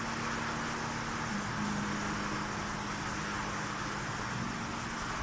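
Steady background hiss with a constant low hum, unchanging throughout, with no distinct clicks or pops.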